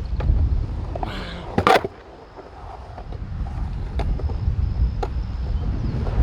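Skateboard wheels rolling on concrete with a low rumble, broken by a loud clack about a second and a half in and lighter knocks later.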